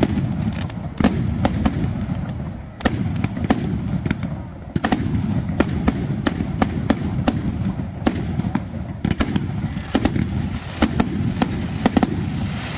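Aerial firework shells bursting in quick succession: sharp bangs, several a second at uneven spacing, over a continuous low noise.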